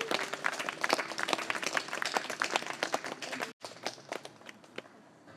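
Small audience clapping after a song, dense at first and then thinning out to a few scattered claps before dying away. The sound drops out completely for an instant about three and a half seconds in.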